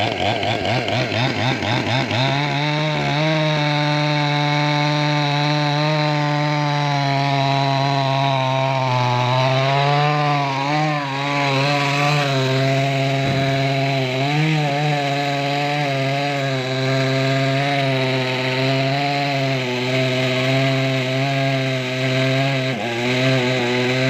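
Two-stroke chainsaw running at high revs while cutting into wood. Its pitch climbs over the first couple of seconds, then holds steady with small dips and wavers under load.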